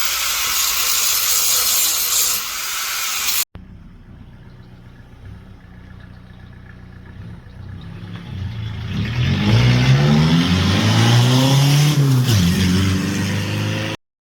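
Angle grinder grinding down fresh welds on an exhaust pipe. Then, after a sudden cut, the diesel engine of a Mk3 Golf idles through a straight-through exhaust with its catalytic converter gutted, and is revved once about nine seconds in, the pitch rising and falling back before the sound stops abruptly.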